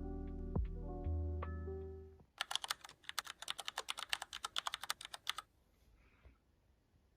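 Background music with sustained notes fades out about two seconds in. Then comes about three seconds of fast typing on a computer keyboard, a rapid run of key clicks that stops suddenly.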